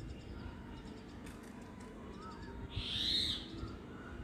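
Birds calling in the background: a faint short chirp about two seconds in, then a louder single call just after three seconds, over the soft rustle of cotton cloth being smoothed by hand on a table.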